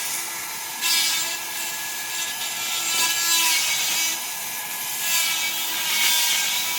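Granberg 12-volt chainsaw sharpener's small electric motor running steadily, with a rasping grind each time its spinning bit is pushed into a chain cutter, every second or two.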